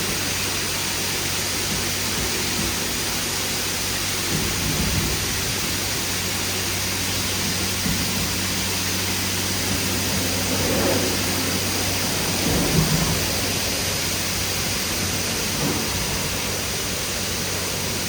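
Roof high-pressure jets of a WashTec SoftCare² Pro gantry car wash spraying water at 70 bar: a steady dense hiss with a steady low hum beneath it, and a few brief thumps.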